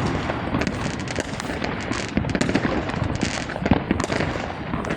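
Dense, continuous barrage of New Year's fireworks and firecrackers going off on all sides, with many overlapping bangs and crackles and no pause.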